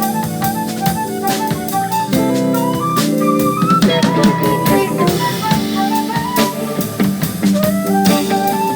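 Live jazz fusion band improvising: a drum kit plays busily with frequent sharp snare and cymbal strikes, under low bass notes and a quick melodic line stepping up and down.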